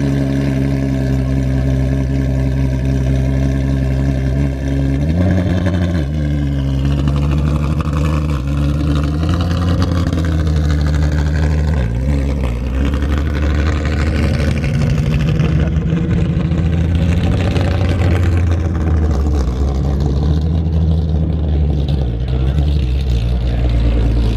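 Ferrari 599XX's V12 running at a fast, steady idle just after a cold start, its pitch rising briefly about five seconds in and dipping again about halfway through.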